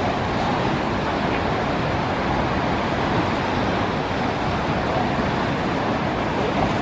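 Steady noise of ocean surf and wind, even throughout with no distinct events.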